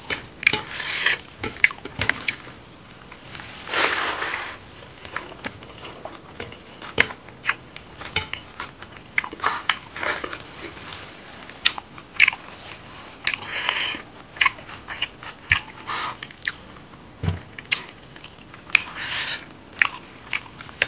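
Pork curry and rice being chewed with the mouth open: a steady run of wet smacks and clicks, with a few longer noisy stretches. Fingers mix rice on a steel plate between mouthfuls.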